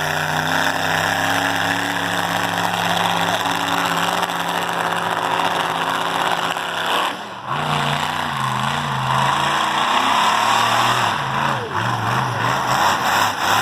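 Monster truck engine running loud and steady, then revving up and down in pitch after a brief dip about seven seconds in.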